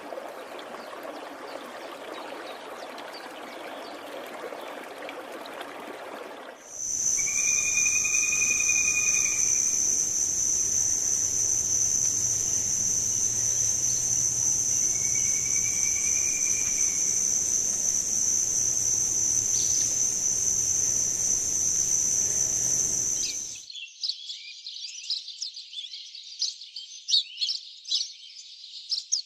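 Three nature recordings in a row: a steady rush like running water, then a loud, unbroken, high-pitched insect trill such as a cricket's with two short whistles under it, and from about 23 seconds in, quick high bird chirping.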